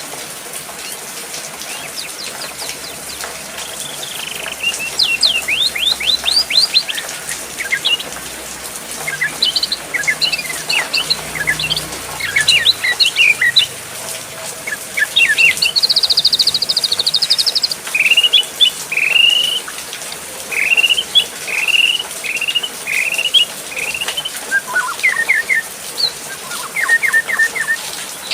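Songbirds chirping and singing in varied phrases: quick rising notes, a fast buzzy trill about halfway through, then a run of repeated down-curving whistles, over a steady hiss.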